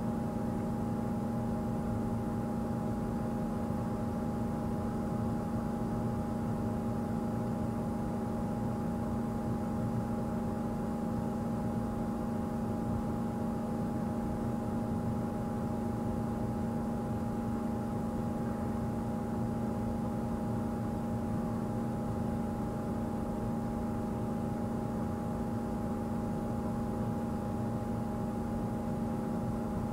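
Steady mechanical hum made of several unchanging low tones over a faint noisy background, with no change throughout.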